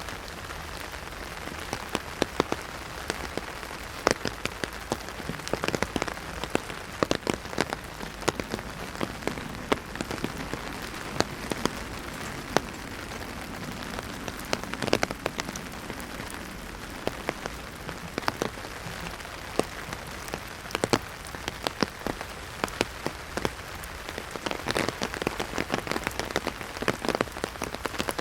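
Heavy rain drumming on an umbrella overhead: a steady patter with many sharp, irregular drop hits close to the microphone.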